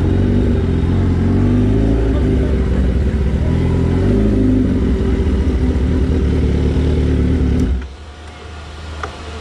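Kawasaki Ninja ZX-10R inline-four on a full race exhaust, idling loudly with slight rises and dips in pitch. About eight seconds in the engine sound drops away abruptly, leaving a low steady hum.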